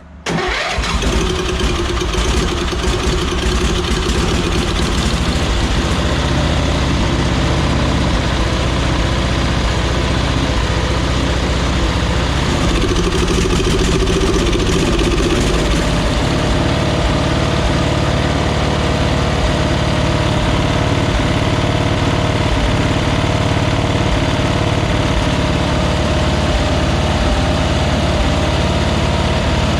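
Briggs & Stratton 11 hp lawn mower engine starting right away and running steadily on its freshly cleaned carburetor, its engine note shifting about halfway through.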